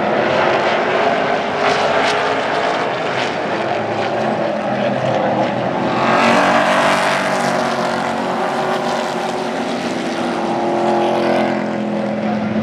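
Field of Super Truck race trucks running at speed around an oval track, a continuous engine drone that swells as the pack passes close about six seconds in and eases off near the end.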